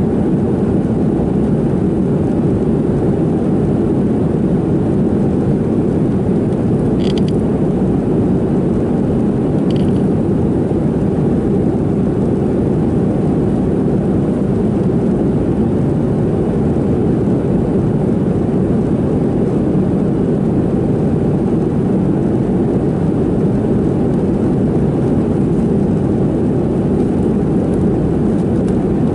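Steady cabin drone inside a Boeing 737-700 in flight: the CFM56-7B engines and the airflow over the fuselage, an even low rush. Two faint, brief higher-pitched sounds come about 7 and 10 seconds in.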